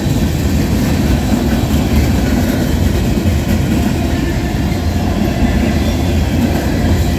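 Freight cars of a long Norfolk Southern freight train rolling past, a steady loud rumble of steel wheels on rail.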